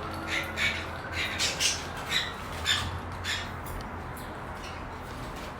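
Pet parrot squawking in a run of short, sharp calls over the first three seconds or so, then falling quiet.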